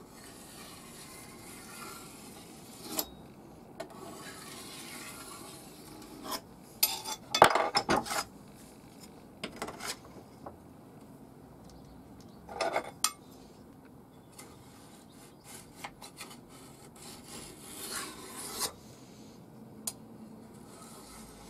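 Flat file scraping along the steel rails of a chainsaw guide bar held in a vise, taking the burr off the rails. It comes in short, scattered strokes with pauses between them and a few sharp metal clinks, the loudest about a third of the way in.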